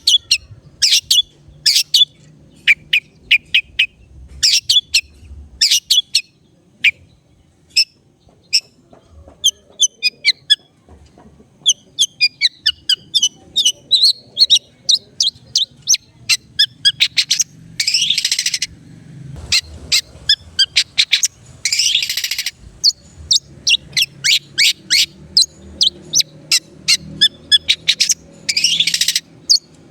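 Long-tailed shrike (cendet) singing a fast, busy stream of sharp chirps and short whistled notes, broken three times by harsh, scratchy bursts of about a second each, the last near the end.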